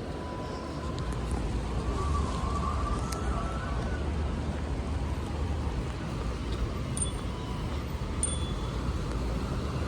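Street ambience: a steady hum of traffic, with a faint brief tone in the first few seconds and two faint clicks later on.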